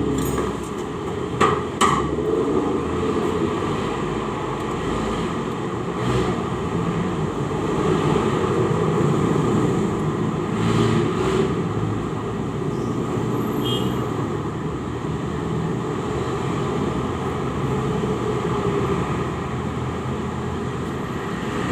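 A few sharp metallic clicks and knocks from hand tools working on a diesel engine's fasteners while it is being dismantled, over steady background noise. The clicks come a couple of times about two seconds in and again near the middle.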